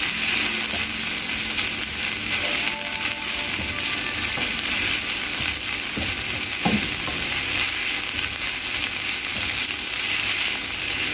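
Chopped taro stems and crushed coconut sizzling in a frying pan while a spatula stirs and scrapes them, with a few sharper scrapes about six to seven seconds in. The coconut is being sautéed until its raw taste cooks off.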